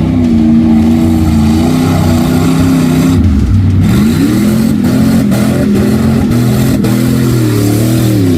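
Loud truck engine revving at a mud bog, its pitch holding, dipping about three seconds in and climbing again.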